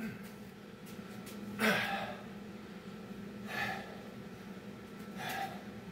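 A person breathing hard from burpee exertion, three heavy breaths about two seconds apart. A faint steady hum runs underneath.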